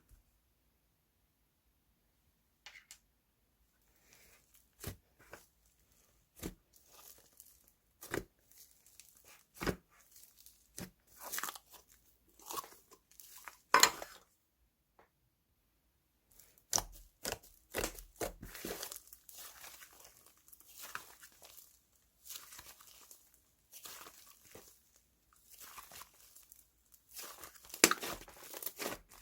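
Slime being handled by hand, with irregular crackling, crunching pops and short tearing sounds that start after a few quiet seconds and pause briefly about halfway through.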